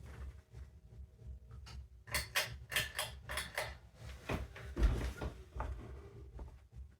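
A series of sharp clicks and knocks, densest about two seconds in, with a louder low thump near the five-second mark, over a faint steady hum from a running ceiling fan.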